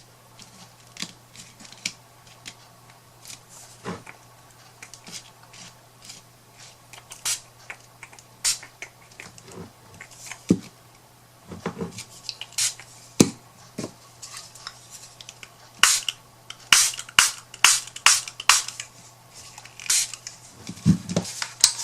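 Hand spray bottle misting water in many short, sharp squirts, a few at first and then in quick runs in the second half, over a faint steady hum.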